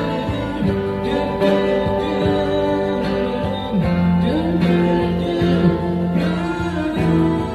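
Live acoustic guitar busking music: strummed acoustic guitars under long held melody notes that slide between pitches.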